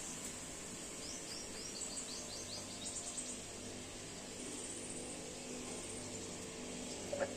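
Outdoor ambience: a bird gives a quick run of short high chirps between one and three seconds in, over a steady high insect drone; a single short knock just before the end.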